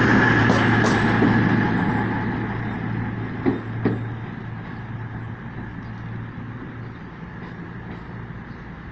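A train running away from the listener, its steady hum fading over several seconds, with two sharp knocks about three and a half seconds in.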